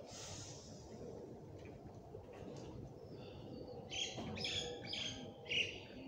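Small birds chirping: a quick run of short, high calls in the second half, the loudest just before the end, over a steady low background rumble.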